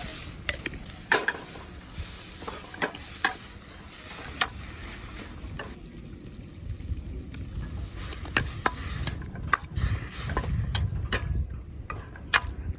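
Food frying in a camping wok while being stirred, with a steady sizzle and many sharp clicks scattered irregularly throughout.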